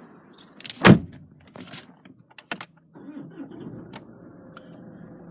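A car door shutting with a single heavy thump about a second in, followed by a few light clicks.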